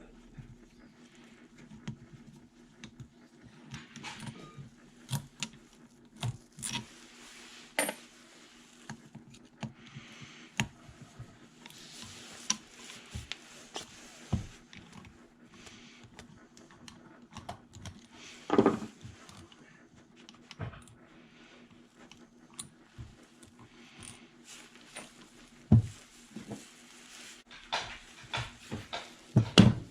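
Scattered metallic clinks, taps and knocks of tools and small metal parts being handled while a pressure washer pump is taken apart to reach its valves, with the loudest clatter a little before two-thirds of the way through.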